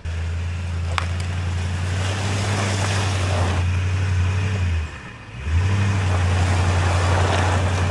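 Truck engine held under throttle while the back tire spins in wet mud, trying to get the truck unstuck. The engine lets off briefly about five seconds in, then pulls again.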